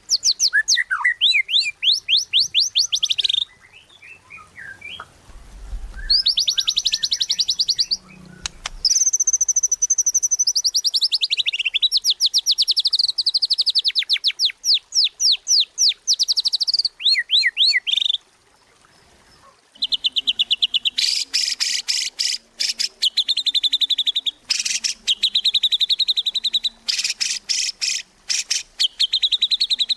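White-rumped shama (murai batu) singing in full voice: long runs of rapid repeated whistled notes sweeping up and down, a brief pause about two-thirds of the way through, then fast rattling trills.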